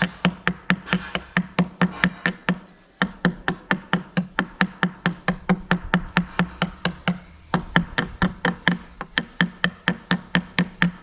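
Rapid, evenly spaced knocks, about five a second, each with a low hollow note, stopping briefly twice.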